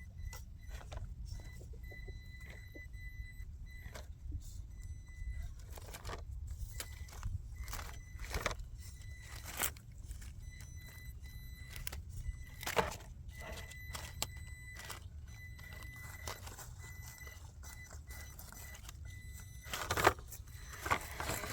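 Small electric RC rock crawler, a Traxxas TRX-4M, crawling down rocks: a thin motor whine comes and goes while the tires and chassis make scattered clicks and knocks on stone, a few of them louder. A steady low rumble sits underneath.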